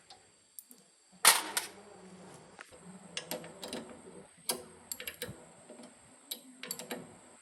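Irregular clicks, taps and clinks of hand tools and metal parts being handled during the repair of a mini milling machine, with the loudest knock about a second in.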